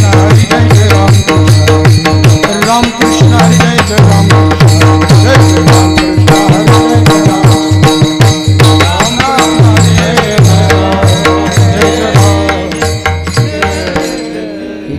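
An instrumental passage of Marathi devotional kirtan music with no singing: a hand drum playing a steady rhythm of deep strokes under sustained keyboard-like tones and the sharp, ringing strokes of small hand cymbals. It eases off slightly near the end.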